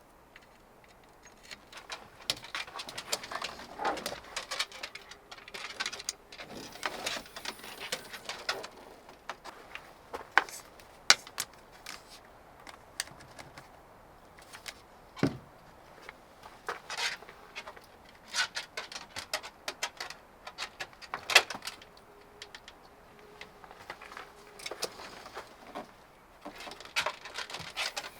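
Irregular clicks, knocks and light clatter of objects being handled, with a few sharper, louder knocks scattered through.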